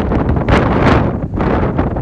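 Strong typhoon wind buffeting the microphone in loud, irregular gusts over a heavy low rumble.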